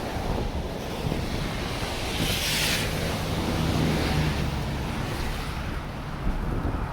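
Snowstorm wind buffeting the microphone: a steady rumble and hiss, swelling into a louder hiss about two to three seconds in.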